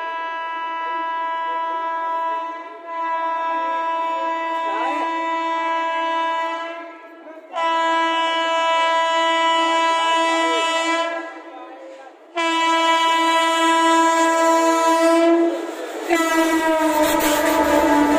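Horn of a WAP7 electric locomotive sounding in four long blasts of about three to four seconds each, with short breaks between them. About sixteen seconds in, the express passes at speed with a low rumble and wheel clatter while the horn keeps sounding.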